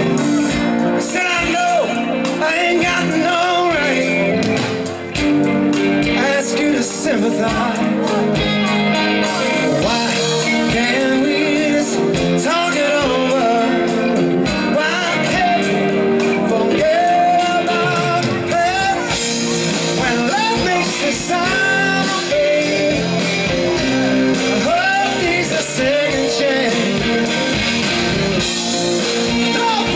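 Live rock band playing a song, with a lead vocal sung over guitar, bass and drums.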